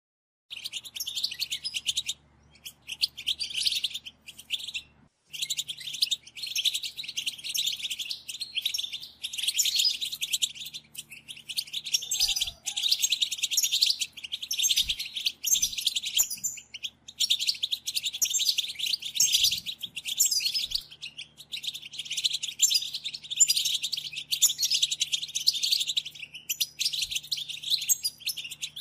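A flock of European goldfinches twittering together: a dense, continuous stream of high chirps and trills, broken by two short pauses in the first few seconds.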